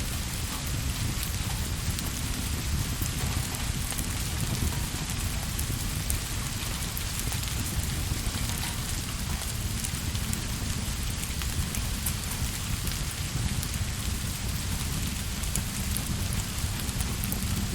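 Steady rain ambience: an even hiss of falling rain with scattered light ticks of drops and a continuous low rumble underneath.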